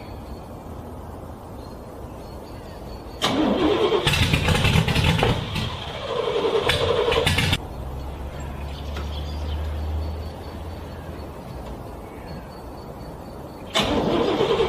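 Car engine cranking on its starter in the cold: a loud wavering crank starts about three seconds in and lasts about four seconds. A low steady hum follows for a few seconds, and another burst of cranking begins near the end.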